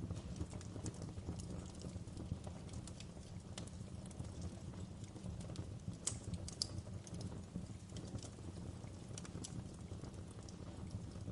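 Wood fire burning in a fireplace, a steady low rumble of flames with irregular sharp crackles and pops from the burning logs; a couple of louder pops come a little past the middle.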